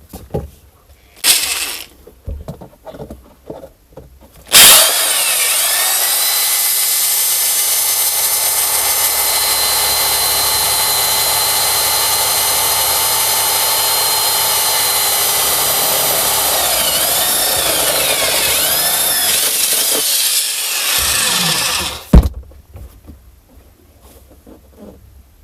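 Electric drill boring through car-body sheet metal: a knock or two, then the drill runs steadily for about seventeen seconds, its pitch wavering near the end before it stops with a click.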